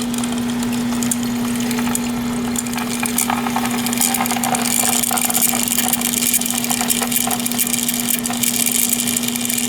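Electric coolant pump of a 2013 BMW 320i running during the cooling-system bleed routine: a constant steady hum with a hiss and fine crackle above it.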